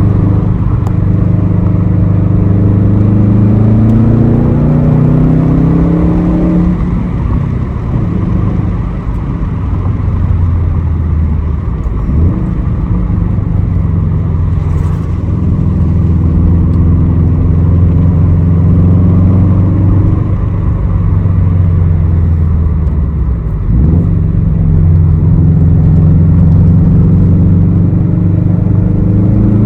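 2006 Subaru STI's turbocharged flat-four engine through a Tomei exhaust, accelerating with the engine pitch climbing and then falling back, several pulls in a row.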